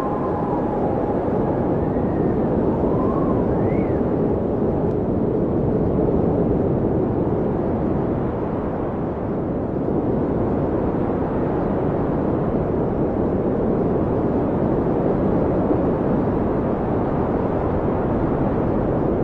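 Blizzard wind blowing hard and steadily, a dense rushing noise. In the first few seconds a few brief howling whistles rise and fall in pitch.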